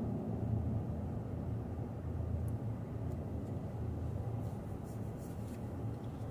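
Steady low rumble of a truck driving, heard from inside the cab: engine and road noise with no speech.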